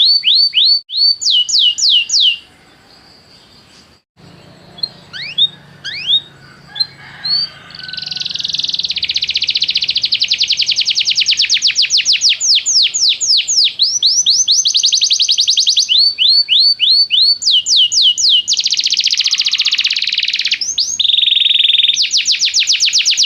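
Domestic canary singing: fast trills of rapidly repeated downward-sweeping notes. The song breaks off for a couple of seconds near the start, picks up with a few scattered notes, then runs on in long, dense trills, with the trill speed changing every few seconds.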